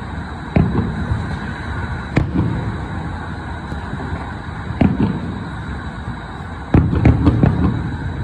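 Distant aerial fireworks bursting: single bangs about half a second, two seconds and nearly five seconds in, then a quick run of several bangs near the end, each trailing off in a low rumble over steady city background noise.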